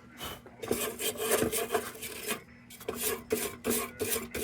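Quick repeated scraping strokes on the painted sheet metal of an old lantern, several a second, with a short pause about two and a half seconds in.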